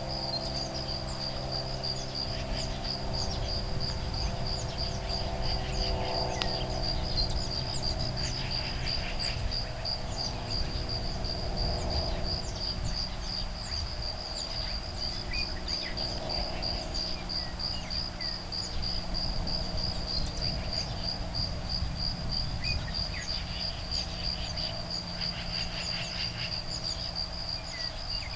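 Crickets chirping steadily in a fast, even, high-pitched pulse, with scattered short bird calls over them, among them woodpecker calls, and a low rumble of breeze.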